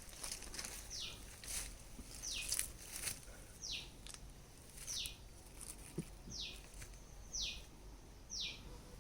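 A bird repeating a short whistled call that falls in pitch, about once a second, with a few faint clicks in between.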